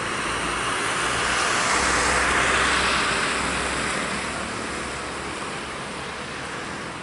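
Jet airliner's engines at takeoff power, a loud rushing roar that swells to a peak about two and a half seconds in and then fades as the aircraft passes and climbs away.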